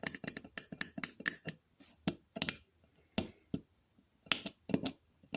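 A small metal tool picking and scraping at a rusty Phillips screw in the jaw of vintage steel locking pliers, clearing rust and debris from the screw head: irregular short scratches and clicks of metal on metal, some in quick clusters.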